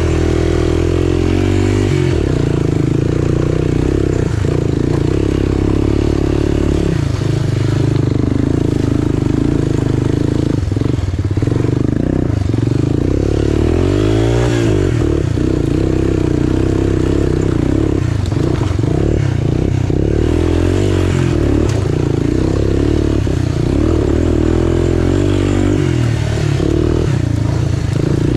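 Off-road motorcycle-type engine of a three-wheeler or dirt bike running continuously under way on a trail, its pitch rising and falling with throttle and gear changes.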